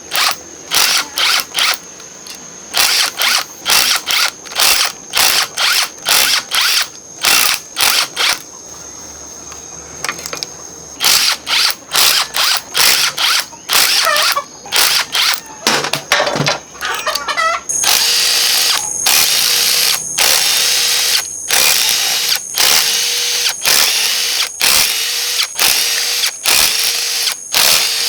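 Handheld power tool run in many short trigger bursts, each under half a second, with a short pause a third of the way in; near the end the bursts come longer and closer together.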